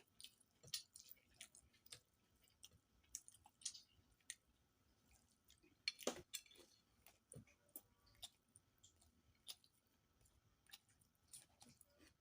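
Faint close-up sounds of a person eating rice and curry: wet chewing, lip smacks and small clicks at an uneven pace, with one louder smack about six seconds in.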